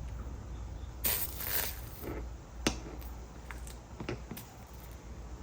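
Hand work at a soldering bench on copper-foiled glass: a brief hiss about a second in, then a sharp click and a few light ticks of tools being handled, over a steady low hum.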